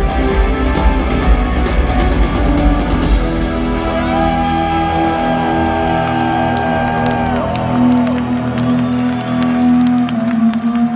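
Live rock band playing the end of a song, loud through an arena PA. The full band with guitars and drums plays until about three seconds in, then held guitar and keyboard notes ring out with some pitch slides, and the bass drops away near the end, with scattered crowd whoops.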